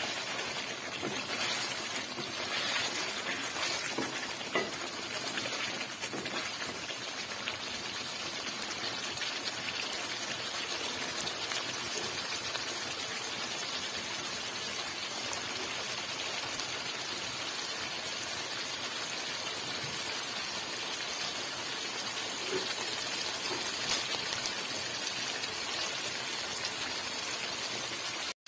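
Chicken karahi frying down in its own released oil in an aluminium pot: a steady sizzle and bubbling, with a wooden spatula scraping and stirring in the first several seconds.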